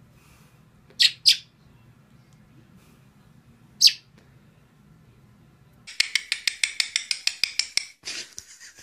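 A young begging bird gives three short, high cheeps, two close together about a second in and one near four seconds. In the second half comes a rapid run of sharp, high squeaks, about eight a second, for some two seconds.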